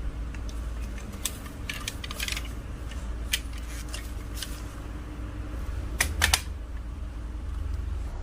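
Marbles rolling down a wooden marble-run track: a scatter of sharp clicks as they knock against the track and each other, the loudest pair about six seconds in, over a steady low rumble.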